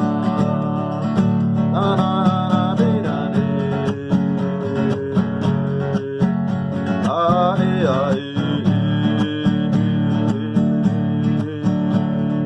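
Music: a strummed acoustic guitar with a voice singing a wavering, wordless melody line in two phrases, about two and seven seconds in.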